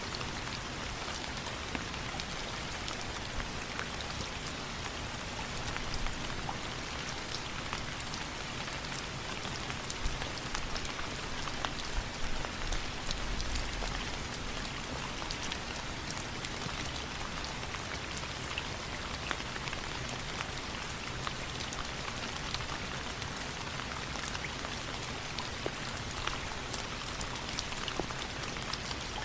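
Steady rain falling, with many small sharp ticks scattered through it and a few brief low thuds about halfway through.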